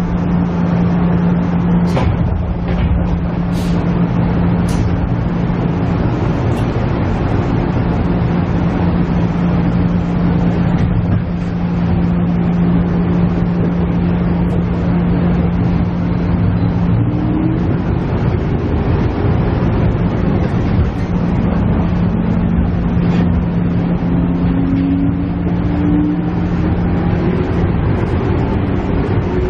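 KiHa E130 diesel railcar heard from inside the car: the diesel engine runs with a steady hum, with a few sharp clicks in the first few seconds. In the last third a rising tone sets in as the engine picks up.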